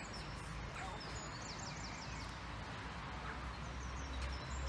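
Songbirds singing: high chirps and a quick trilled phrase about a second in, over a low steady rumble.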